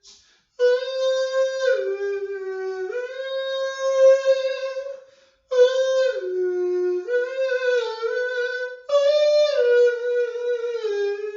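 A person humming or singing a wordless melody in long held notes that step up and down in pitch, in three phrases with short breaths about five and nine seconds in.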